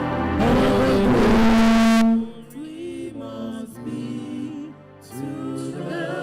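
Church worship song with singing and instruments, loud until a long held note ends about two seconds in, then dropping to soft sustained music with quiet singing.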